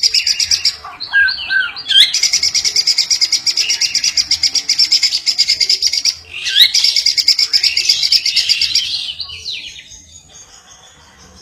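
A bird singing long runs of fast trilled high notes, each run lasting several seconds, with short sweeping calls between them. The song fades away about ten seconds in.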